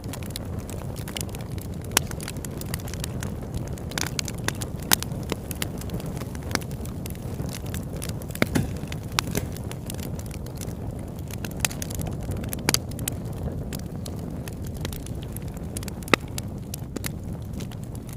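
Campfire burning, a steady low rush of flame with irregular crackles and sharp pops from the wood; a few pops stand out louder, one about two seconds in and one near the end.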